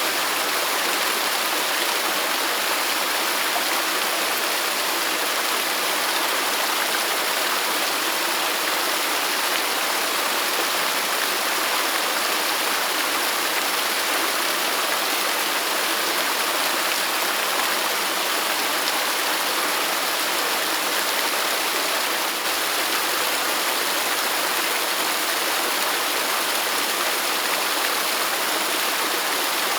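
Waterfall: water pouring and splashing in a steady, unbroken rush, bright and hissy with little deep rumble.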